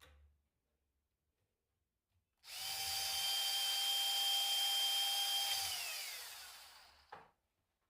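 Electric power drill running at a steady high whine for about three seconds, then released, its pitch falling as the motor spins down. A short knock follows near the end.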